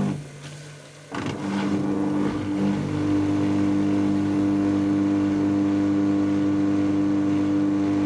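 Dyson Contrarotator CR01 washing machine's motor and drums on the 800 rpm final spin. The sound drops away briefly, comes back sharply about a second in, then settles into a steady high-pitched spin hum.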